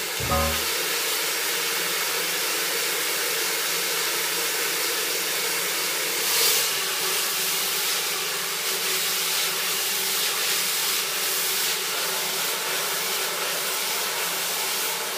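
Hair dryer running steadily, a continuous rushing blow with a faint hum, swelling briefly louder about six seconds in.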